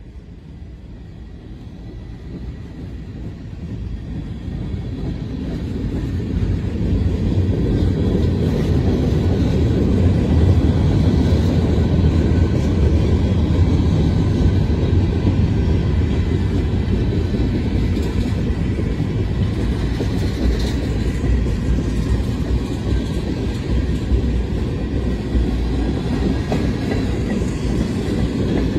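Freight train tank cars rolling past on the rails: a steady low rumble of wheels on track. It grows louder over the first several seconds and then holds steady.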